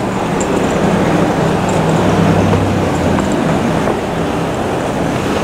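Steady rumble of city traffic, with a low engine hum.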